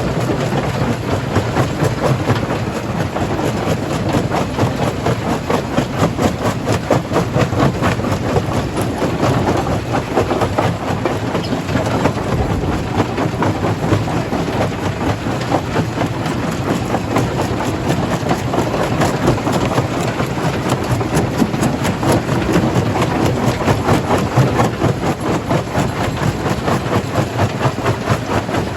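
Stone crusher running with rock being crushed: dense, continuous rattling and clattering of stone over a steady low machine drone.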